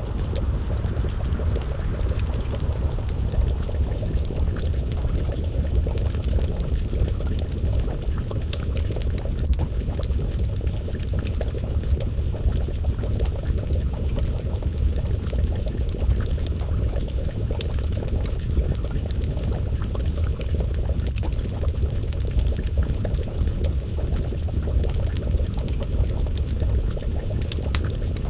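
Wood fire crackling with many small sharp pops over a steady low rumble, and a pot of stew bubbling over the flames.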